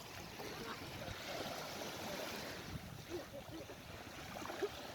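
Sea water lapping and gurgling around a kayak, with a few short gurgles in the second half.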